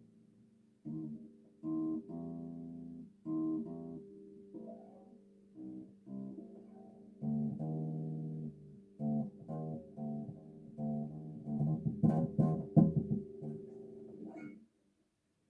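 Bass guitar played solo: a line of plucked notes, some held for about a second, with short gaps between phrases. About twelve seconds in comes a quick flurry of sharp, percussive string attacks, and the playing stops near the end.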